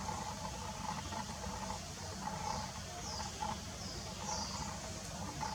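Birds chirping: short, high, downward-sliding calls repeated about every second, over a steady low rumble.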